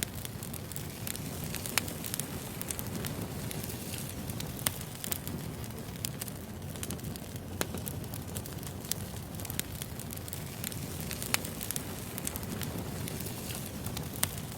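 Wood fire crackling: a steady low rumble with frequent sharp pops and snaps at irregular intervals.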